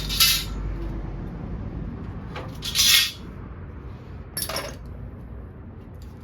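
Metal clanking as parts and tools are handled during bumper removal: three sharp clinks, the loudest about three seconds in.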